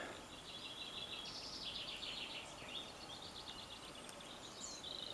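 Faint songbird chorus: repeated high chirps and rapid trills.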